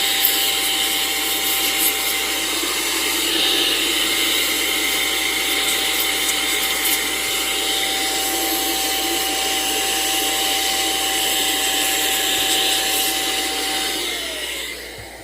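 Handheld electric dryer blowing steadily with a motor whine, drying a snow globe's still-damp motor parts. Near the end it is switched off and the whine falls as the motor spins down.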